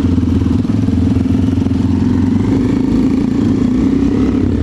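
Motorcycle engine running steadily at low revs, a continuous low pulsing drone.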